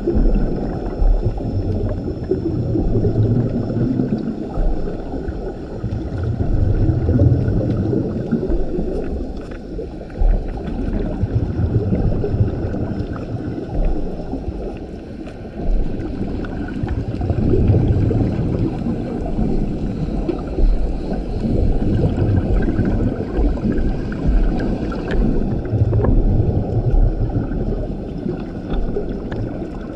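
Scuba diver breathing through a regulator underwater: each breath ends in a low rumbling gurgle of exhaled bubbles, one roughly every four to five seconds.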